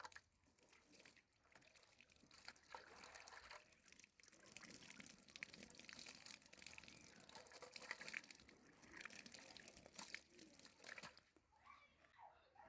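Faint trickling and dribbling water, with small scattered splashes.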